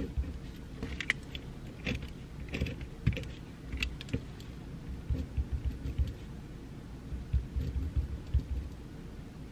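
Irregular light clicks and taps of work at a desk, bunched in the first four seconds, then soft low thumps in the second half, over a steady background hiss.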